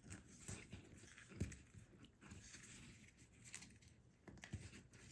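Faint crackling and rustling of parchment paper as its edges are torn and creased by hand, with a few small knocks.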